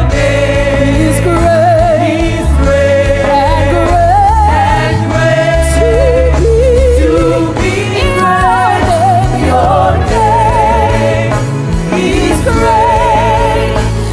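Gospel worship song: sung vocals with strong vibrato over a band with a steady bass line.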